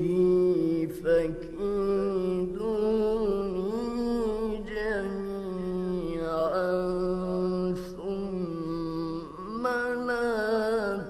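A male Quran reciter chanting in the slow, melodic tajweed (mujawwad) style. He holds long drawn-out notes on the vowels and winds through ornamented turns in pitch, with only brief breaths between phrases.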